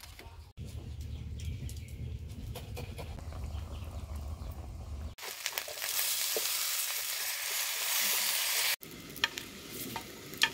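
Food sizzling as it fries in hot oil, a steady hiss for about three and a half seconds in the middle, cut in between shorter stretches of low rumbling hum and light clicks and knocks.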